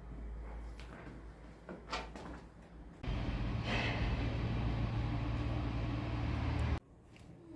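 Light knocks and clicks, then an electric motor that starts about three seconds in, runs steadily with a low hum for about four seconds and cuts off abruptly.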